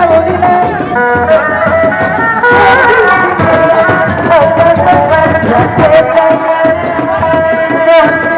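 Loud live folk music from a kuda lumping troupe's ensemble: a held, bending melody line over rapid hand-drum strokes.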